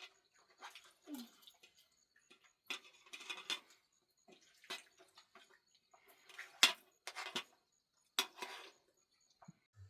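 Intermittent clatter of hard objects knocking together: a run of separate sharp strikes, the loudest about two-thirds of the way through.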